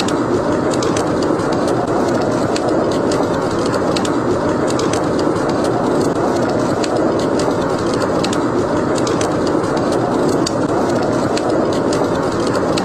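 Steady rushing wind of a howling snowstorm, with the irregular crackles and pops of a burning wood fire scattered over it.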